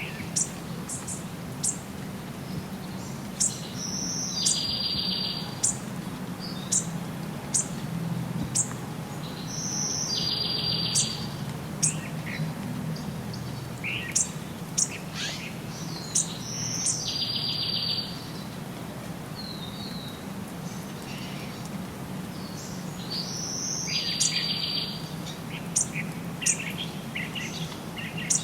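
Wild birds singing: one bird repeats the same song phrase, ending in a buzzy trill, about every six to seven seconds, among scattered short chirps from others, over a steady low background rumble.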